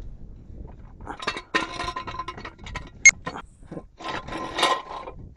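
Metal gear being handled: irregular scraping and rubbing, with one sharp ringing metallic clink about three seconds in.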